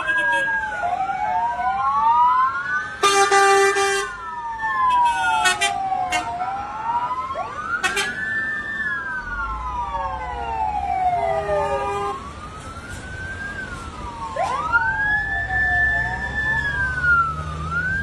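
Several firefighting-vehicle sirens wailing out of step with one another, each rising and falling. Short horn blasts sound about three seconds in and again around five to six seconds. A low engine rumble comes in about halfway through.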